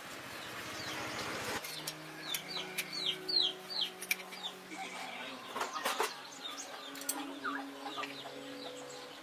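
Birds and chickens calling: a run of short, high, falling chirps. Before the chirps, a hiss stops suddenly about one and a half seconds in, and a steady low hum runs underneath.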